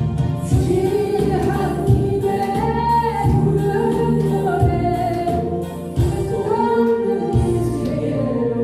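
Korean trot song playing on a backing track with a steady beat, a woman's singing voice carrying the melody over it.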